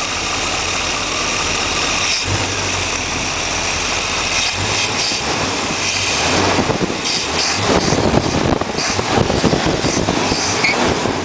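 1976 Chevrolet Corvette's 350 small-block V8 idling steadily, growing louder and more uneven in the second half.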